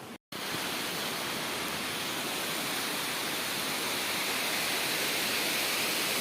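Water rushing over the spillway weir of a dam that is full after the rains: a steady roar that starts abruptly after a brief dropout and grows slightly louder.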